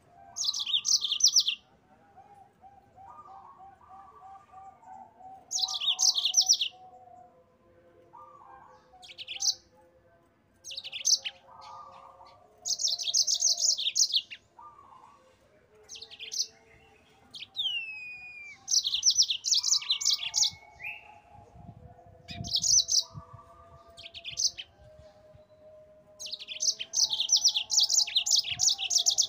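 Yellow-fronted canary (mozambik) singing: bursts of rapid, high trills about a second long, repeated every few seconds, with fainter lower notes running between them and one downward-sliding whistle.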